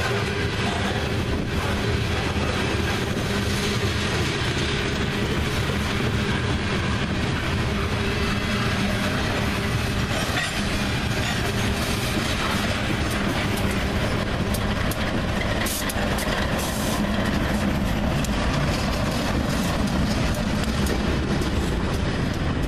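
Loaded coal hopper cars of a freight train rolling slowly past, with a steady wheel-on-rail rumble and clatter. In the second half a diesel locomotive at the rear of the train goes by.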